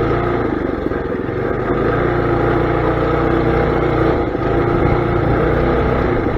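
Mini bike's small engine running steadily, with a couple of brief dips in speed.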